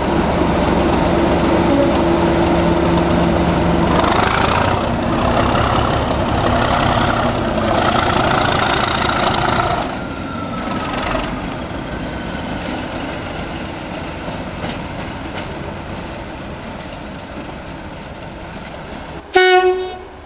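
Class 37 diesel locomotive working, its English Electric V12 engine loud for about ten seconds and then fading away. A short blast on the locomotive's horn comes near the end.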